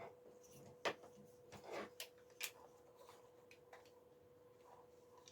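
Near silence with a faint steady hum, broken by a few short clicks and rustles of hands handling a camcorder cable and accessories, about one to two and a half seconds in.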